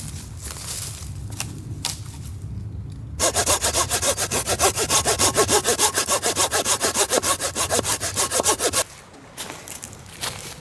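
Hand saw cutting through wood in fast, even back-and-forth strokes, starting about three seconds in and stopping abruptly after about five and a half seconds.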